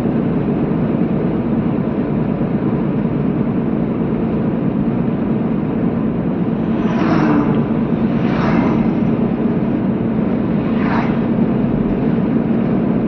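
Road and engine noise inside a moving car's cabin: a steady low rumble with a hum, and three short louder noises about seven, eight and a half and eleven seconds in.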